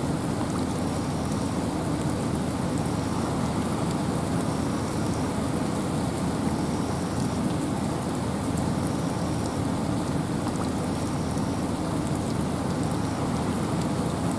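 Steady rain falling through a forest with wind: an even, dense hiss with a low rush and many fine drop ticks, unchanging throughout.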